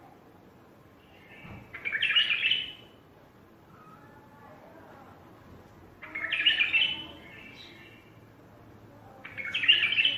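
Wild bulbul singing, three loud bursts of warbling song about four seconds apart, with softer calls in between.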